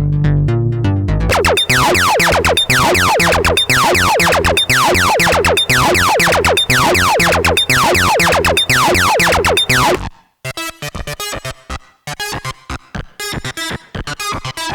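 Dreadbox Typhon monophonic analog synthesizer playing preset patterns. A low bass line changes, about a second in, to a fast repeating run of notes that each sweep down in pitch, about four a second. Near the end it switches to a different sound of short, clipped notes with gaps between them.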